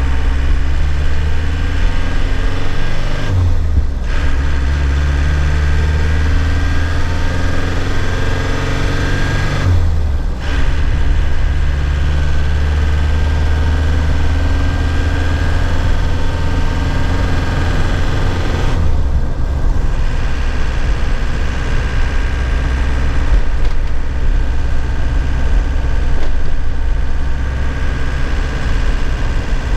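2001 Nissan Cabstar light truck's engine accelerating, heard from the cab. Its pitch climbs and drops back at gear changes on the manual gearbox about three and a half, ten and nineteen seconds in, then the engine runs more evenly.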